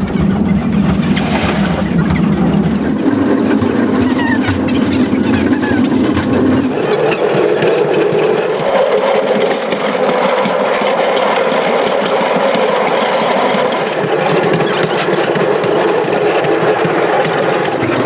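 An old train running, heard from aboard: a steady engine-and-running-gear drone that shifts to a higher pitch about seven seconds in.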